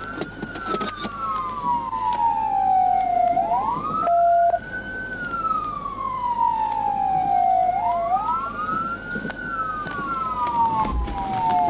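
Police car siren wailing: each cycle rises quickly, then falls slowly over about four seconds, with a second siren tone running just out of step. A short steady beep sounds about four seconds in.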